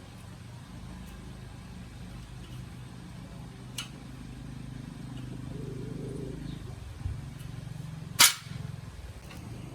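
Small motorbike engine running steadily with an even low throb, a little louder past the middle. A sharp click about eight seconds in, with a fainter one near four seconds.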